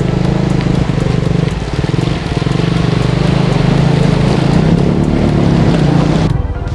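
Benelli TRK 251 single-cylinder motorcycle engine running steadily as the bike rides through a river ford, with water splashing, under background music with a steady beat. Near the end the hiss drops away abruptly.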